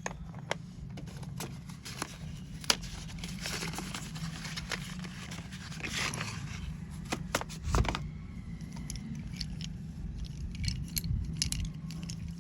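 Slate pencils clicking against one another as they are handled. A scattered run of sharp clicks is joined by a stretch of rustling and scraping in the middle and a quick cluster of clicks near the end.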